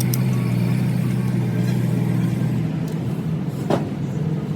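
An engine running steady and low, its pitch shifting a little under three seconds in, with one sharp metallic click near the end.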